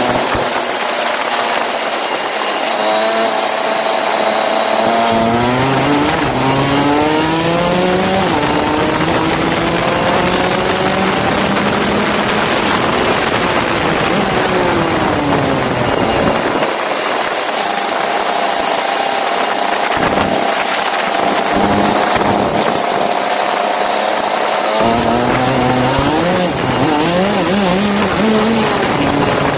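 Go-kart engine running hard, its pitch climbing and dropping again and again as the throttle is opened and eased, over a steady hiss.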